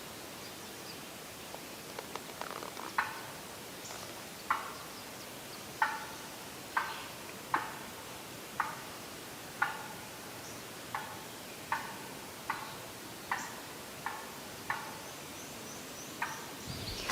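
Wild turkey gobbler putting: a string of about fourteen sharp single alarm notes, roughly a second apart, starting about two seconds in. It is the sign of a bird that has seen something it doesn't like.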